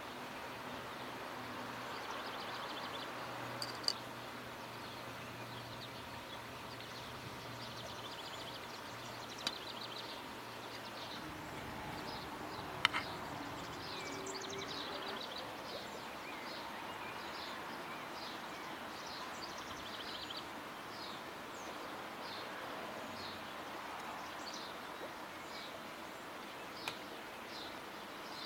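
Outdoor garden ambience with small birds chirping again and again, with a low hum over roughly the first ten seconds. A few sharp clicks of cutlery on dishes.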